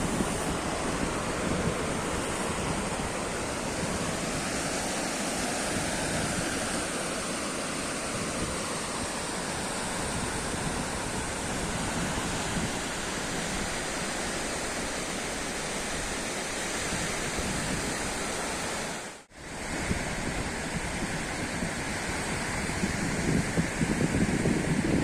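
Sea surf washing steadily with wind buffeting the microphone, swelling louder near the end. About three-quarters of the way through the sound drops out for a moment.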